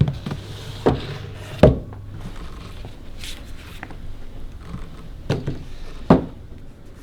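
Five scattered knocks and thuds in a small room over a low hum: two close together about a second in, the loudest just after, and two more near the end.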